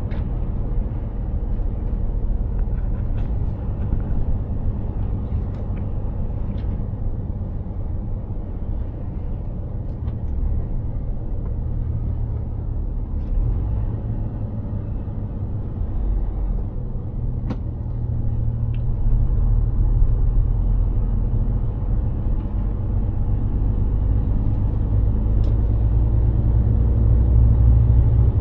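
Mercedes-Benz Actros 2763 truck driving, its engine and road noise making a steady low drone that grows louder about 19 seconds in, with a few faint clicks.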